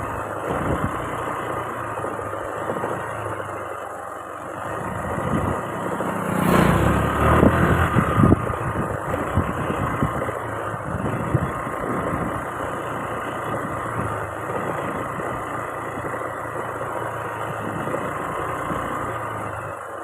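Motorcycle being ridden, engine and road noise running steadily, with a louder swell about six to eight seconds in.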